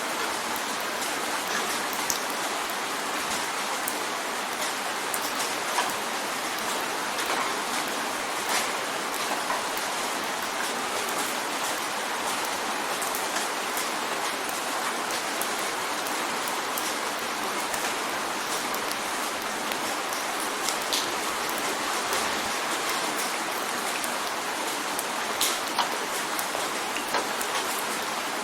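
Steady rain drumming on a window pane, an even hiss with scattered sharper drop taps.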